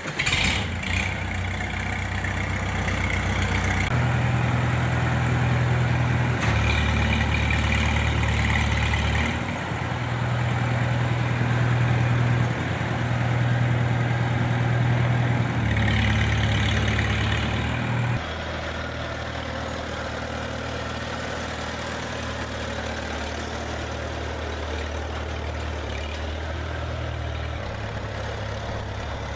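Farmall 200 tractor's four-cylinder gasoline engine running just after starting, its speed stepping up and down several times, then settling to a steady lower idle about 18 seconds in.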